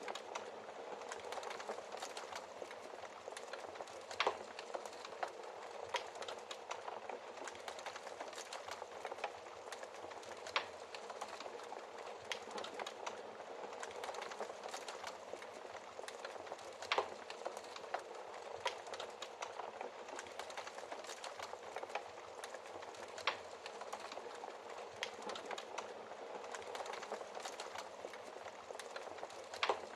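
Wood fire crackling in a fireplace: a steady hiss full of small crackles, with a few louder pops spread through.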